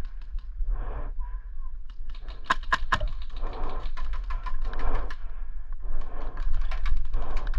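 Airsoft guns firing: scattered sharp shots, coming thicker from about two and a half seconds in, over a steady low rumble of wind and movement on the mic.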